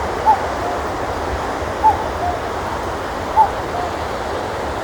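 Male common cuckoo singing its two-note "cuck-oo" song, a higher note dropping to a lower one, three times about a second and a half apart, over a steady rushing background hiss.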